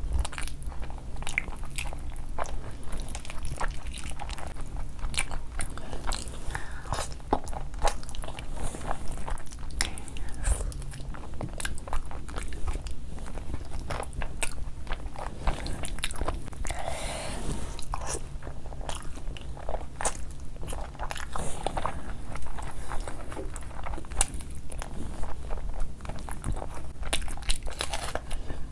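Close-miked eating: wet chewing, smacking and biting into pieces of curried mutton on the bone, with short crunchy bites. A cluster of crisp bites near the end comes as a whole fresh red chilli is bitten.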